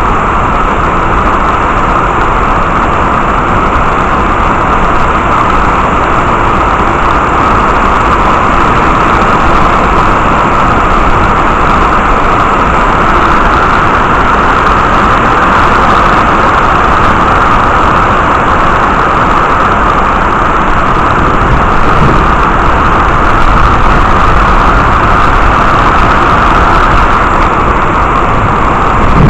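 Heavy rain falling steadily, a loud, even hiss with no break.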